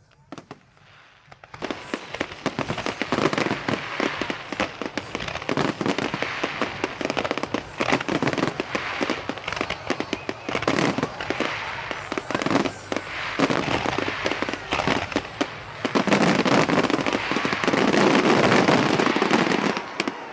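Fireworks display going off in a dense, continuous barrage of bangs and crackles. It starts about a second and a half in, is loudest over the last few seconds, and stops abruptly at the end.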